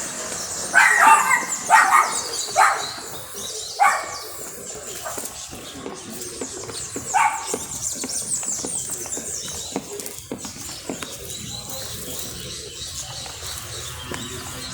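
Dog barking: a quick run of four barks in the first three seconds, another about four seconds in and one more about seven seconds in, over steady high-pitched chirping.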